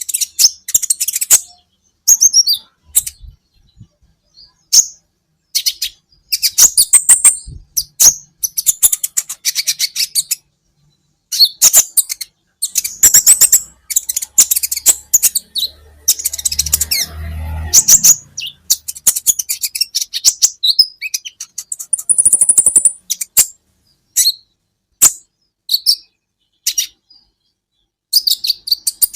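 Kolibri ninja sunbird singing: bursts of rapid, high-pitched chirps and twittering trills broken by short pauses, with a brief low rumble underneath about halfway through.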